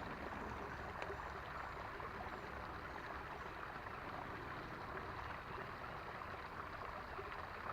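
A small creek's water running: a steady, even rush, with a faint tick about a second in.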